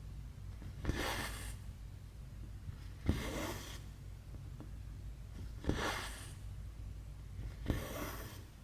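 Cross-stitch needle and floss being pulled through 11-count cloth four times, about every two seconds. Each stitch is a sharp tick followed by a short rasping swish as the thread draws through. A low steady hum lies underneath.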